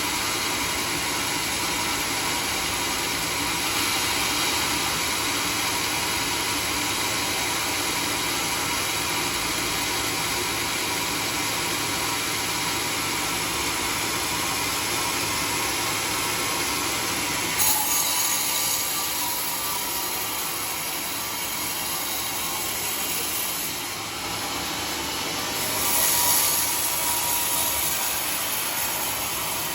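Sawmill saw running and cutting through a teak log, with a steady machine noise. The cut gets suddenly brighter and louder about 18 seconds in, and again near 26 seconds.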